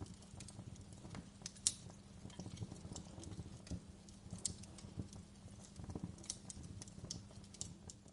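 Wood fire burning in a fireplace: irregular sharp crackles and pops over a low rumble of the flames, with a faint steady hum underneath.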